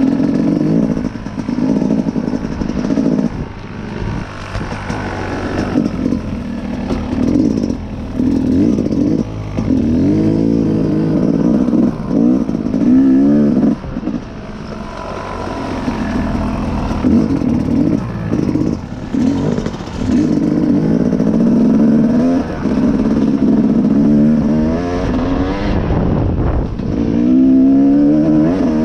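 Dirt bike engine being ridden, revving up and easing off again and again, its pitch climbing with the throttle and dropping back every few seconds.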